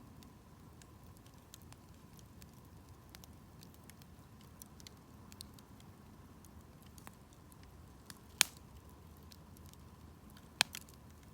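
Wood campfire crackling: a low steady rumble with scattered small crackles, and two sharp, loud pops from the burning wood, about eight and ten and a half seconds in.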